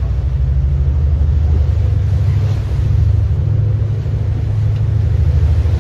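Steady, loud low rumble of a ship under way at sea, with wind buffeting the microphone.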